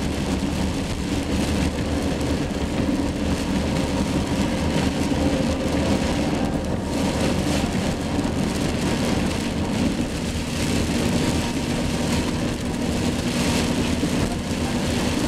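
Heavy rain falling on a moving car, over the steady noise of the engine and tyres on a wet road.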